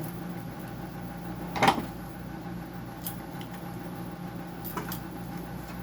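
Hand-tool and parts handling while a dehumidifier is taken apart: one loud sharp knock about a second and a half in, then a few lighter clicks, over a steady low hum.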